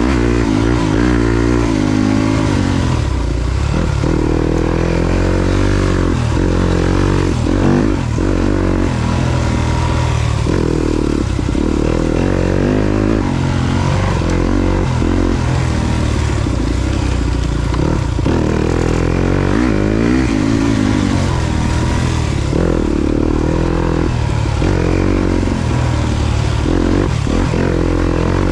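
Yamaha YZ250FX four-stroke single-cylinder dirt bike engine under way on a trail, its pitch rising and falling over and over as the throttle is opened and closed.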